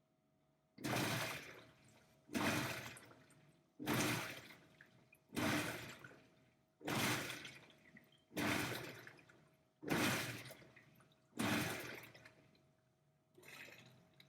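Mabe top-load washing machine's motor turning the empty basket's agitator in short pulses, eight strokes about a second and a half apart, each starting sharply and fading, with a weaker one near the end. This is the washer's automatic load-sensing test, judging how much water to fill from the motor's effort.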